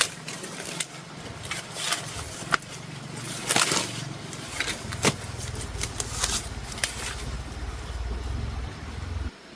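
Rustling and snapping of leaves and plant stems being handled or pushed through, with scattered sharp clicks. A low rumble joins about halfway and cuts off suddenly near the end.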